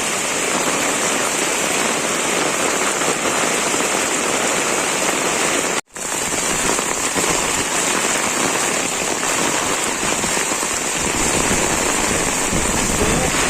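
Steady rain falling and hitting surfaces. The sound cuts out for an instant about six seconds in.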